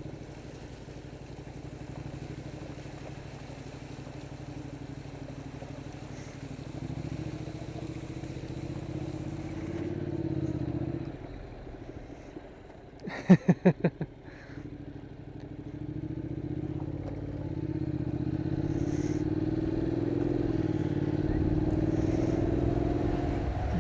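Honda NC750X DCT's parallel-twin engine running at low speed through floodwater, then pulling away with its note rising in pitch as the bike gathers speed. A brief loud rattling burst comes about halfway through.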